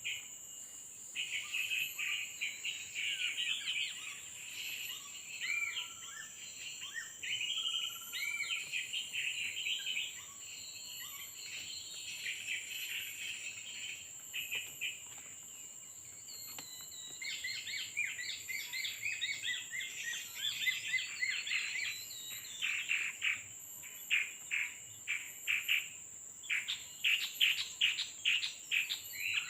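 Small songbirds calling with quick, busy chirps and rattling notes. The calls come faster and denser in the second half, over a steady high-pitched hum.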